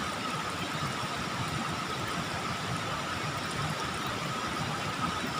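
Steady rush of water flowing in a small ditch, with a thin steady tone running over it.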